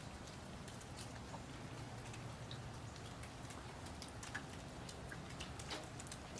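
Outdoor ambience with scattered light ticks and clicks over a low steady hum, and a few faint short high chirps, likely from birds.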